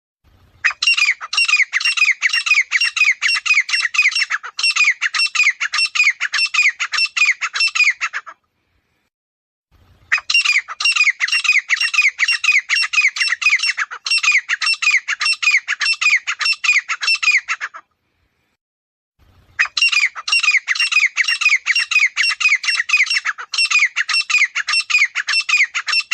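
Grey francolin calling: three long bouts of loud, harsh notes repeated rapidly and evenly, each bout about seven to eight seconds long, with short silences between them.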